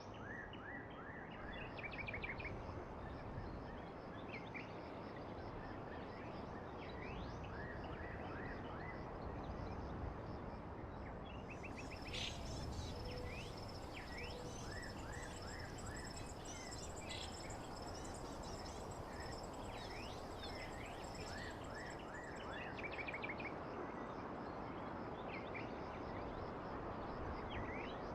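Birds chirping and singing over a steady background hiss, many short calls throughout, with a busier, higher-pitched stretch in the middle.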